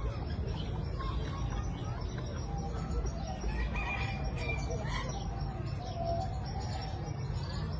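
Several birds calling in an aviary: short chirps and fowl-like calls, busiest around the middle, over a steady low rumble.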